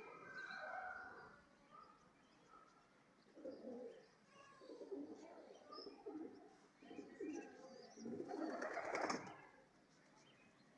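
Pigeons cooing in a string of low calls, with a louder, noisier burst about eight seconds in.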